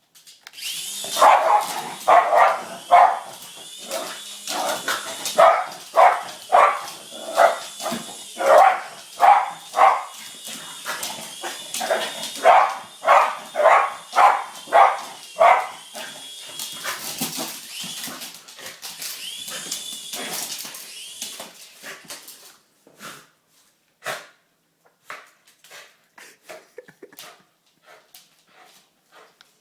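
Dog barking repeatedly and fast, about two barks a second, over the high, steady whine of a toy helicopter's motor that rises and falls in pitch. The barking thins out after about 16 s, and the whine stops about 22 s in, leaving scattered clicks and small knocks.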